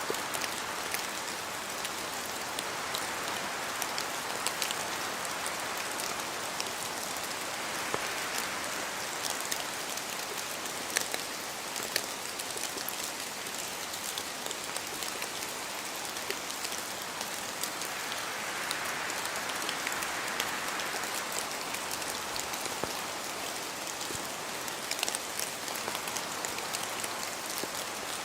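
Steady rain in a spruce forest, with many sharp individual drops falling from the trees. Wind rises and falls through the branches in slow gusts.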